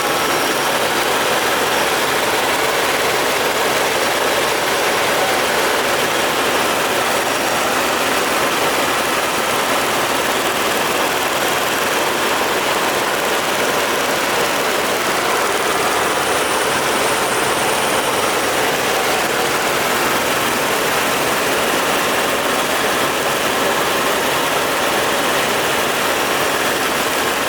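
Helicopter engine and rotor running: a loud, steady noise that does not change.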